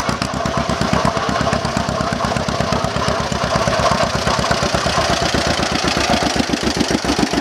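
1938 John Deere A's two-cylinder engine running, its exhaust popping in an even, rapid beat.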